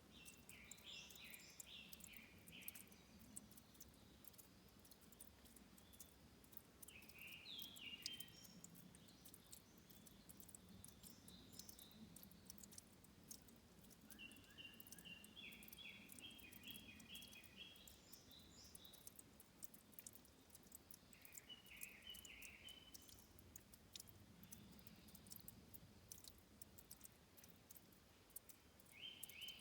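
Faint bird song: short phrases of quick, repeated high notes every few seconds, over a soft steady murmur of trickling water.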